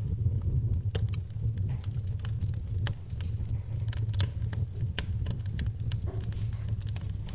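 Wood fire in a fireplace crackling, with irregular sharp pops and snaps, several a second, over a steady low rumble, and rain pattering in the background.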